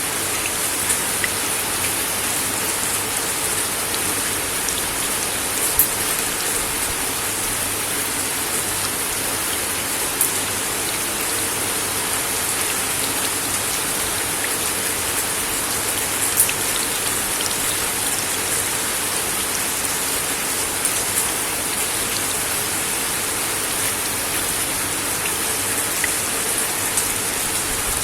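Steady rain falling on a wooden deck, an even hiss with scattered sharper ticks of single drops.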